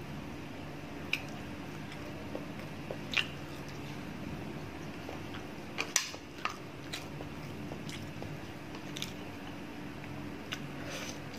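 Close-up wet chewing and lip-smacking of someone eating soft food (mussels and rice) by hand: scattered short mouth clicks and smacks, the loudest about six seconds in. A steady low hum runs underneath.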